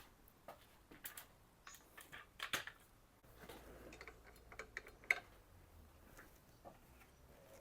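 Faint clicks and taps of a knife and sharpening jig being handled as the grinding step ends, with a low steady hum coming on about three seconds in.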